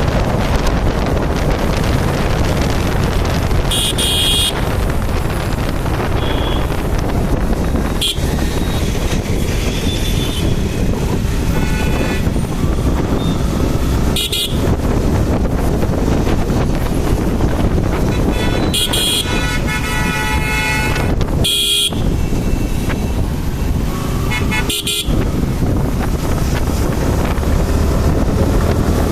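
Wind rushing over the microphone of a moving motorcycle in road traffic. Several short vehicle horn honks cut through it.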